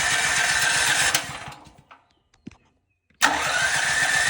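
Electric starter cranking a Pulsar 12,000-watt generator's engine, which turns over without catching. The cranking stops about a second in and starts again after a two-second pause, the starter's whine rising as it spins up. The choke is still off, and it is only put on afterwards.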